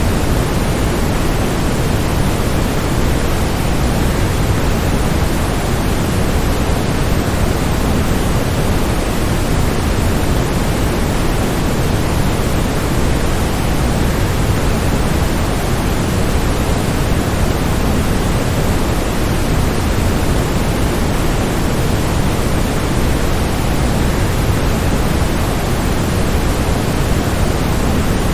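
Steady rushing of a waterfall: a constant, even wash of falling water, heaviest in the low end, with no change or separate events.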